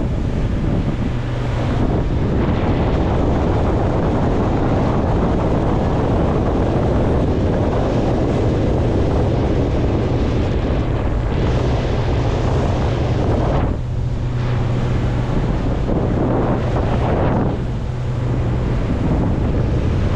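Motorboat underway: a steady engine drone beneath wind buffeting the microphone and water rushing past the hull.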